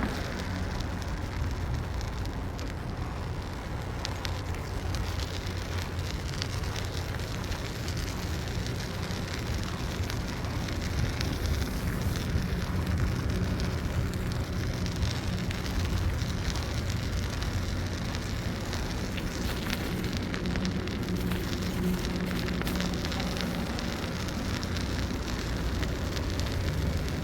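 Steady rushing wind noise on the microphone from riding a bicycle, with crackling and a low rumble. Some tyre and road noise is mixed in.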